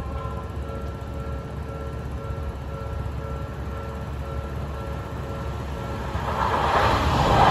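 Level-crossing warning bell ringing steadily, then an Odakyu Line electric commuter train approaching, its rumble and wheel noise swelling from about six seconds in.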